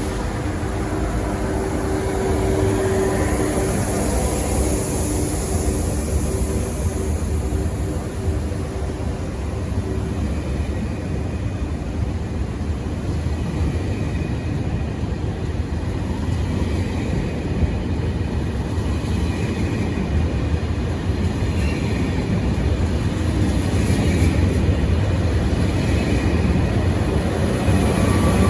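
High-speed TGV train running through the station: a steady heavy rumble with hiss over it, and a humming tone that fades out about a third of the way in.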